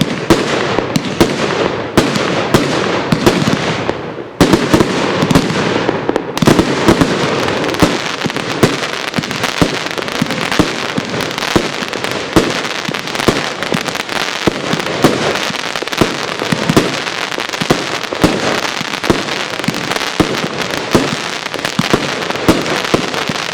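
Garden of Eden fireworks cake firing a dense, continuous barrage of bangs and crackling, many reports a second, with a brief lull about four seconds in.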